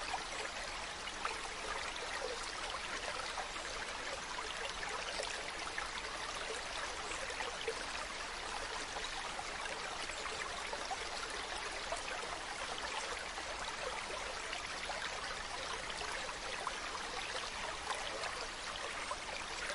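Mountain stream running over rocks: a steady rush of water with many small splashes and trickles.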